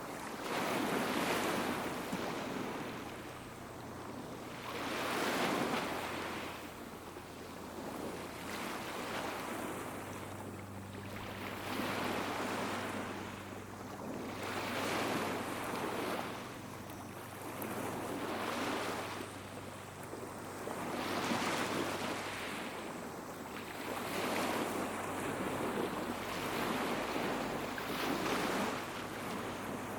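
Small sea waves washing onto the shore, each swell rising and falling every two to three seconds, with a faint steady low hum underneath.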